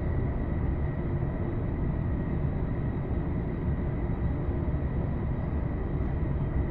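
Tokaido Line commuter train running between stations, heard from inside the carriage: a steady low rumble of wheels on rail with a faint, steady high tone above it.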